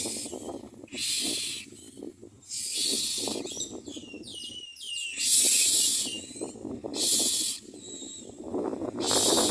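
Common myna nestlings begging with harsh, hissing rasps that repeat every second or two, with a short run of gliding whistled notes near the middle.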